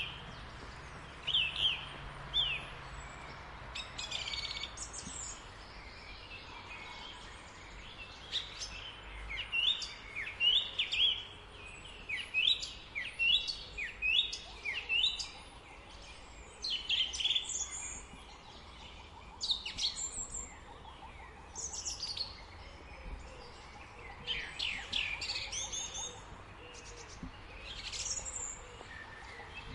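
Small birds chirping and calling, many short high notes and quick sweeping calls coming irregularly, over a faint steady background hiss.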